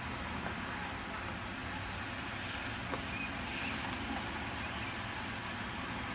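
Steady outdoor background noise, a low rumble and hiss like distant road traffic, with a few faint ticks.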